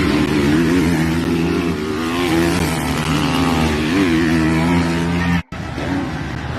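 Several motocross bike engines racing together, revving up and down over a steady background roar; the sound drops out abruptly for a moment about five and a half seconds in, then picks up again.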